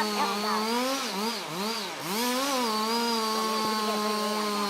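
Chainsaw running at high revs. Its pitch dips and recovers several times from about a second in as the chain loads up in the cut, then holds steady again.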